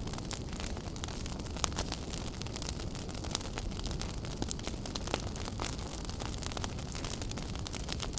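Wood fire burning in a fireplace: a steady low rumble of flames with frequent irregular crackles and sharp pops, a few louder snaps among them.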